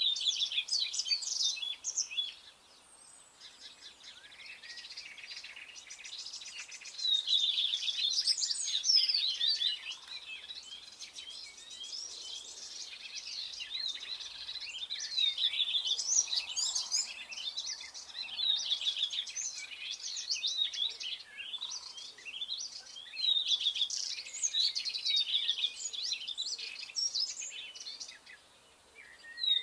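Songbird singing phrases of quick chirps, trills and sweeping notes, with quieter gaps between phrases.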